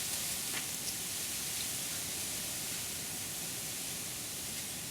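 Steady, even hiss of wind through bamboo leaves, with a couple of faint ticks about half a second in and near the one-second mark.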